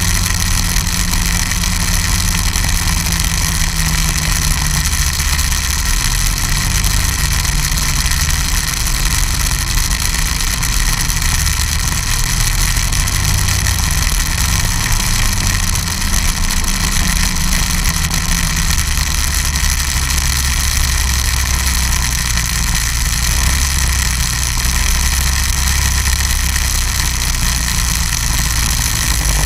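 Snowmobile engine running steadily, its low note shifting up and down a little with the throttle, over a constant high hiss and whine.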